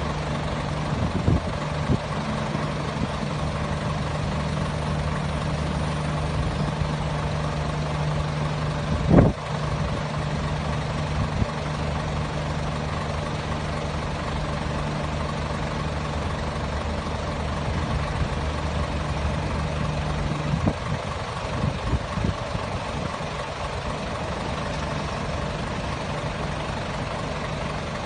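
Vehicle engine idling steadily, with a single sharp knock about nine seconds in; the low hum of the idle thins out a little after twenty seconds.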